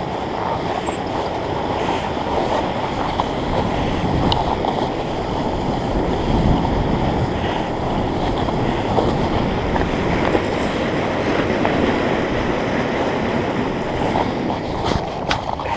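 River rapids rushing steadily, with a couple of sharp clicks near the end.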